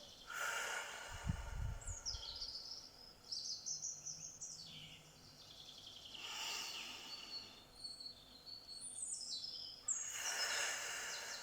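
Birds singing, with several quick downward-sweeping chirps and whistles, over a light steady outdoor hiss; a short low rumble about a second in.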